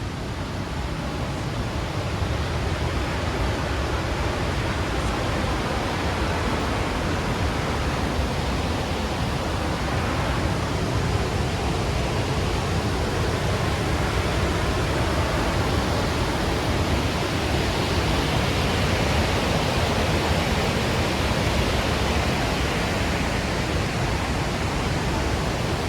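Rushing water of the Lechfall waterfall: a steady, dense roar of falling water that swells slightly partway through.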